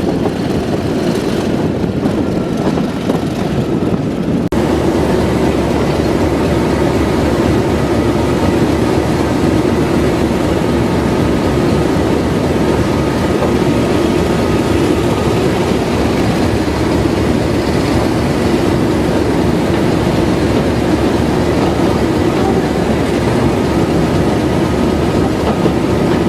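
Diesel train running: a loud, steady mix of engine and wheels on the rails. The sound changes abruptly about four and a half seconds in.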